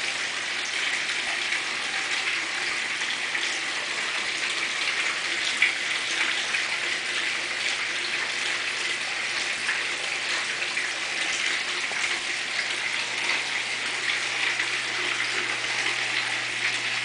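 Water splashing and pattering steadily down a galvanized-steel waterfall sculpture, with a faint steady low hum underneath.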